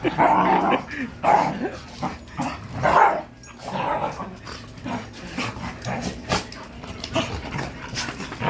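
A dog barking: about four loud short barks in the first few seconds, then quieter barks and small clicks and knocks.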